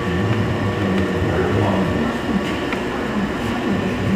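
Steady low mechanical rumble with a few light clicks.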